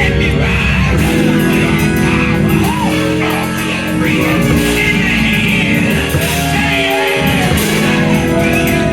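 Loud live band music with sustained held chords and a guitar, with voices singing and shouting over it: a praise break in a Pentecostal church service.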